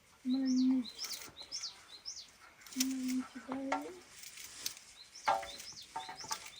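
A small bird chirping repeatedly: short, high chirps that rise then drop, about two a second, in two runs. A few brief, low, steady hums sound over it near the start and about three seconds in, and these are the loudest part.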